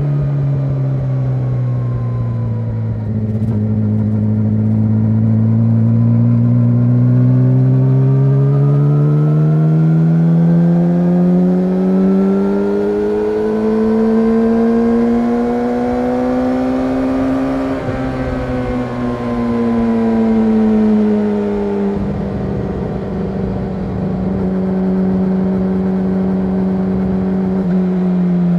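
Yamaha YZF-R6's inline-four engine through an SC-Project SC1-R exhaust, on the move. Its note dips a little, then climbs smoothly for about fifteen seconds, falls away, and holds a steady pitch for the last several seconds.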